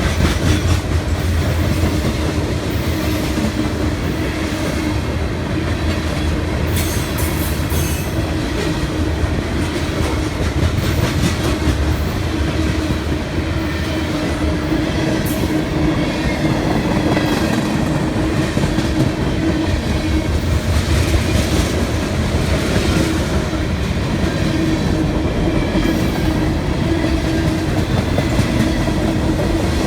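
Freight train cars rolling past at steady speed: a continuous rumble with wheels clicking over the rail joints.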